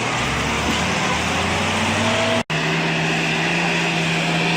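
Heavy diesel engine running under load, with a momentary dropout about halfway through after which a different steady engine note carries on.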